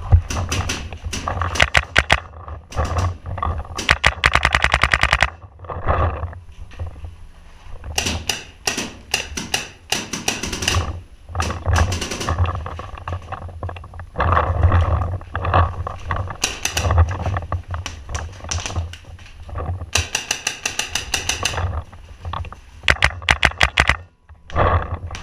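Paintball markers firing, mostly in quick strings of shots with short pauses between them; one string about four seconds in runs at roughly ten shots a second.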